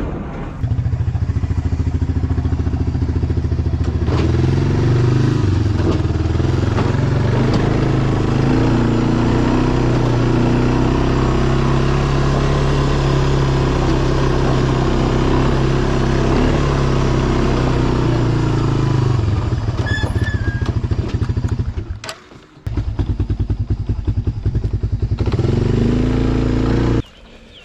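A vehicle engine running steadily, picking up revs a few seconds in and easing off later. It drops out briefly, runs again, and then stops near the end.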